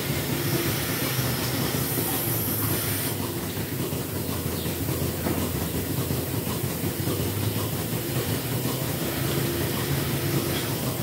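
Dairy milking plant machinery running steadily: a low hum with hiss over it. A brief high hiss comes about two seconds in and lasts about a second.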